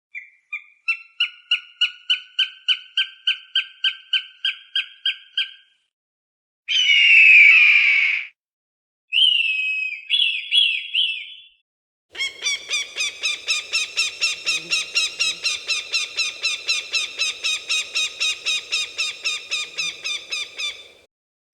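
Hawk calls: a rapid series of sharp repeated notes, about four a second, then a single harsh scream, a few short falling cries, and a second, longer rapid series of repeated notes at the same pace.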